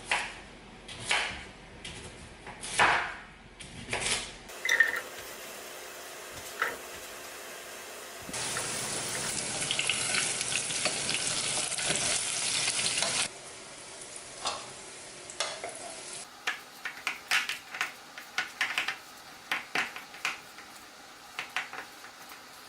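Food frying in a pan with a steady crackling sizzle for about five seconds in the middle, between short stretches of clicks and knocks of kitchen utensils against cookware.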